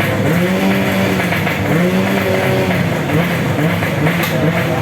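Racing 125cc underbone motorcycle engines revving, the pitch climbing and dropping again several times.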